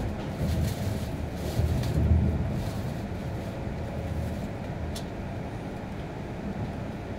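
Steady running noise inside an E6 series Shinkansen car: a low rumble of wheels on the rails. A few louder knocks come in the first two seconds, and a single sharp click about five seconds in.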